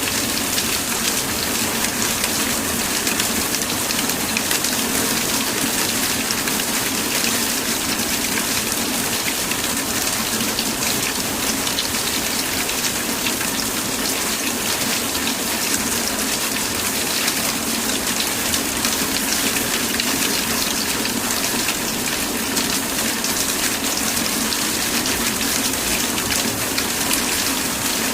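Steady, heavy rain: an even hiss with a dense patter of drops, unchanging throughout.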